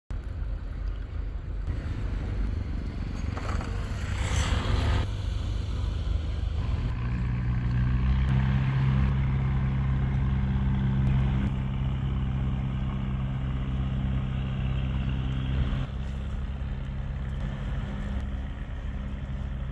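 Fishing boat's engine running steadily, its note growing louder and fuller about a third of the way in and easing back a few seconds before the end, with a brief hiss of water or wind early on.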